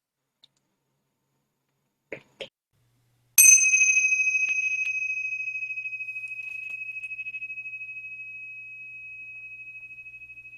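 A meditation bell struck once about three seconds in, after two faint knocks. It rings with a high, clear tone that fades slowly with a gentle wavering, marking the end of the silent sitting.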